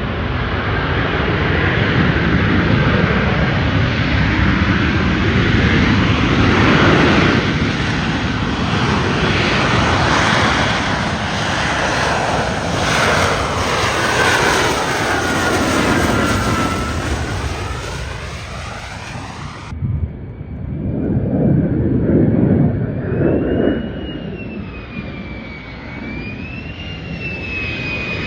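F-35 Lightning II fighter jet engines running loud in a flyby, the noise sweeping and shifting in tone as the jet passes. About two-thirds of the way through, the sound cuts abruptly to a quieter jet with a high wavering whine and a few brief surges of engine noise.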